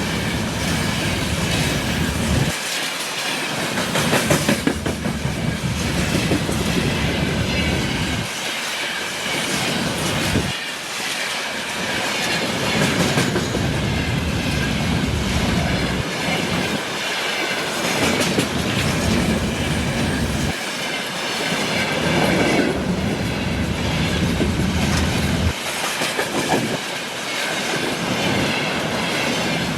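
Railway cars rolling past close by at speed, wheels clattering over the rails in a continuous loud rush. The low rumble dips every few seconds as the cars go by.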